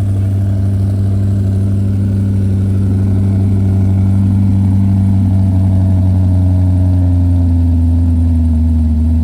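Car engine idling steadily and loudly, its pitch holding nearly even, with a slight shift in tone about seven seconds in.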